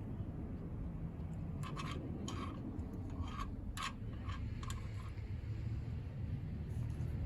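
A steady low rumble, with a quick run of about nine short, scratchy clicks in the middle.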